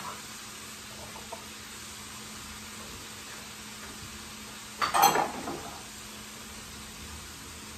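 Sliced beef and bell peppers sizzling steadily in a hot stir-fry pan, with a brief clatter about five seconds in.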